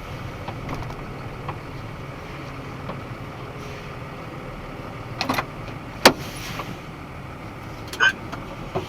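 Box truck's engine running, heard from inside the cab as a steady low rumble. A couple of clicks come about five seconds in, then a single sharp knock about a second later.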